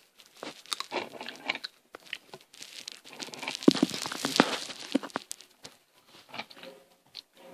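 Plastic snack packet crinkling and rustling as it is handled, mixed with crisp crunching of fried potato snack sticks. It comes in irregular bursts, densest and loudest around the middle.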